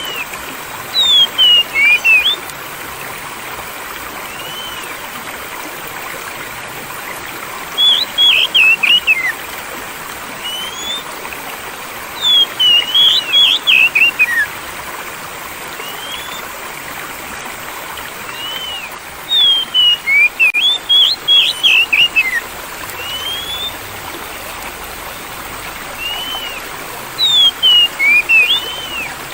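Flowing stream water runs steadily, while a songbird repeatedly sings short bursts of quick, sweeping whistled notes. There are about five song phrases, with quieter single calls between them.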